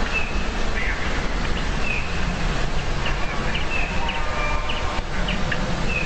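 Small birds giving short, high chirping calls several times over a steady low rumble.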